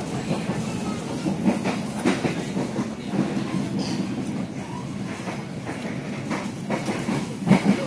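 Passenger train running on the rails, heard from inside the carriage: a steady rumble with irregular short knocks from the wheels, and a louder knock near the end.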